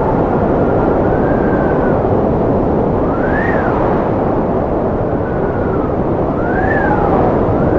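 Strong wind blowing in a steady rush, with a whistling tone that rises and falls every second or two.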